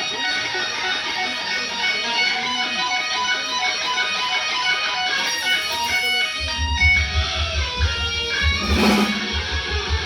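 Amplified electric guitar playing notes and chords. About six seconds in, low bass notes come in underneath, and a single drum or cymbal hit sounds near the end.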